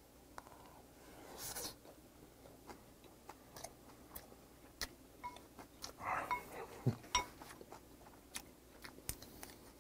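Close-miked chewing of a mouthful of rice topped with boneless soy-sauce-marinated raw crab: soft wet mouth clicks and smacks scattered through, with a brief breathy hiss about a second and a half in and a louder flurry of mouth sounds around six to seven seconds in.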